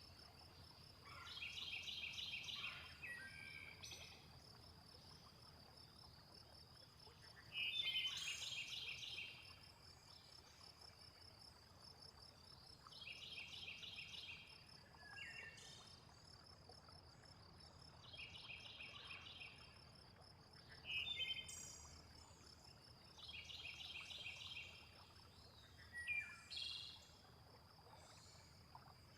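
Nature soundscape: a steady high insect trill runs throughout, with bursts of repeated calls every few seconds and scattered bird chirps, over a faint low rush of water.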